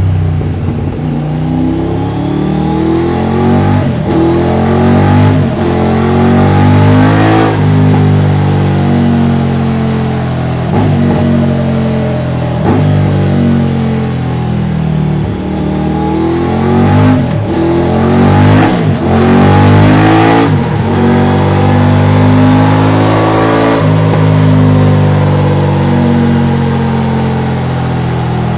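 Triumph Tiger 900 GT Pro's three-cylinder engine through a Delkevic X-Oval titanium exhaust, revved up and down repeatedly. The note climbs and drops in pitch again and again, with a few brief sharp breaks in it.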